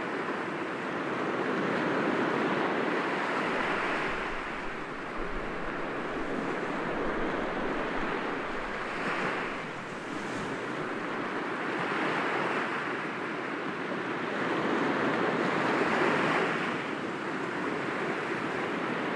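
Sea waves breaking gently against rocks, a continuous wash of surf that swells every few seconds as each wave comes in.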